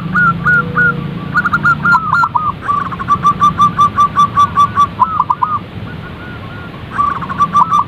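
Zebra doves cooing: runs of short staccato notes, one run a rapid even series of about seven notes a second, with a brief lull near the end before the calling picks up again.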